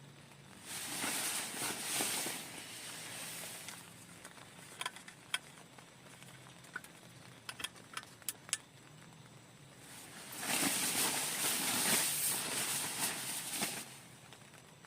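Rain falling steadily, swelling twice into a louder hiss of about three seconds each, with a scatter of sharp ticks and taps between the two rushes.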